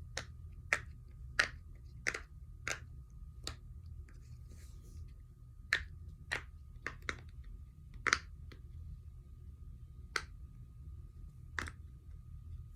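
Silicone pop-it fidget being popped on its good side, bubble by bubble: about fifteen short, sharp pops at an uneven pace, with a pause of about two seconds partway through.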